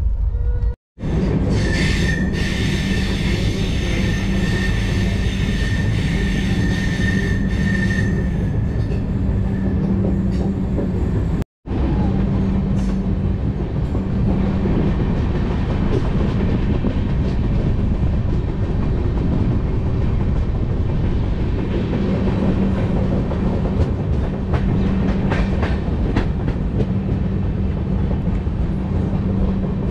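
Moving passenger train running at speed: a continuous rumble of the coach's wheels on the rails. A high steady whine sits over the rumble for the first several seconds. The sound cuts out for an instant twice, about a second in and around eleven seconds.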